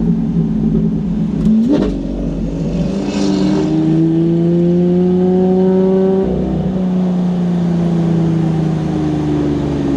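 A car engine running under load, its pitch rising slowly, then dropping suddenly about six seconds in and easing down gradually, like a gear change. A short upward rev comes near the two-second mark.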